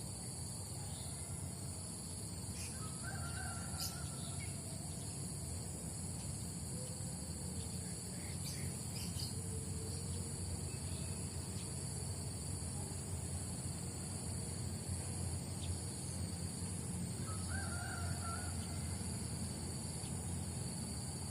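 A distant rooster crows twice, once a few seconds in and again near the end, over a steady high insect drone and a low, even rumble.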